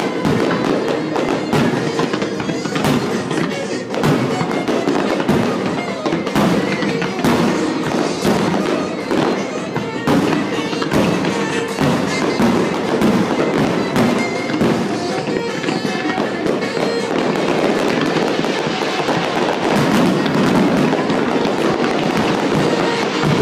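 Aerial fireworks shells bursting and crackling in a dense, continuous barrage, many reports a second, with music playing underneath.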